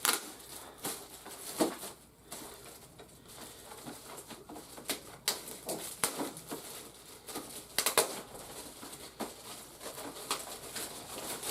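A toy's cardboard box and plastic packaging being handled and opened: irregular rustles, crinkles and sharp little taps and clicks.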